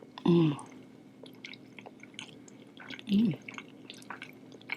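Close-miked chewing and wet mouth sounds of someone eating sushi, with small clicks throughout. Two short hummed "mm" sounds stand out, one just after the start and one about three seconds in.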